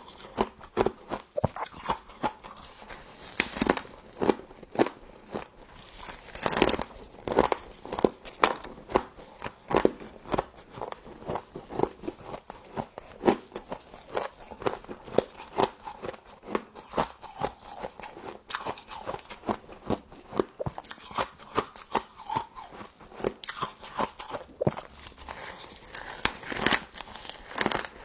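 Close-miked crunching and chewing of frost in the mouth: a continuous run of sharp, irregular crackles and crunches, several bites a second.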